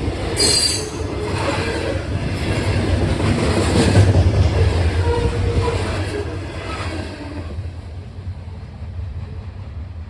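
Train cars rolling past on the rails, with the wheels squealing and a brief high screech about half a second in. The sound is loudest around four seconds in, then fades.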